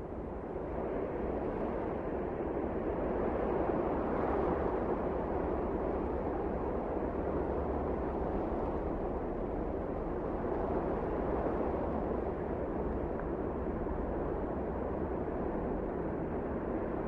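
Wind blowing steadily, a low rushing noise that builds over the first few seconds, swells about four seconds in, then holds.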